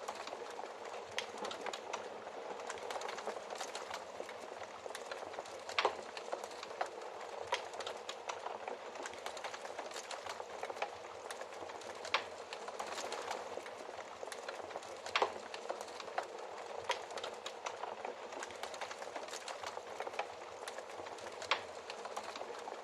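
Wood fire crackling: a steady hiss with irregular sharp pops, a few of them louder than the rest.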